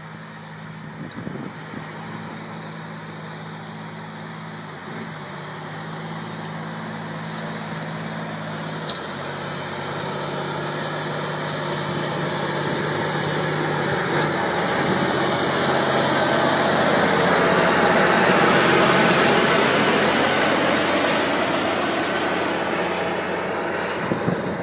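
Heavy tractor engine running hard under load. Its steady note drops a little about a third of the way in, and the roar then builds to a peak about three-quarters through before easing off.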